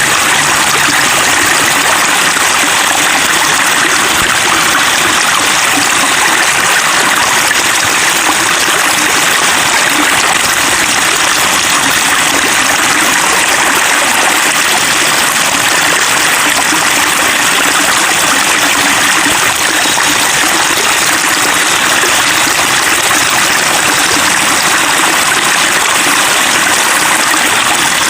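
Water flowing and babbling steadily over rocks, a continuous stream sound with no pauses.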